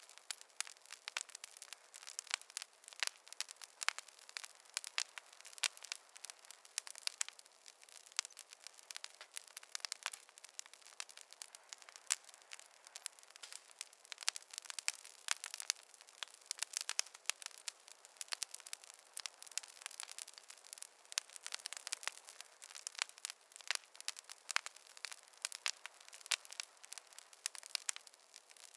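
Campfire crackling: a steady run of small, irregular pops and snaps, light and thin with no deep rumble under them.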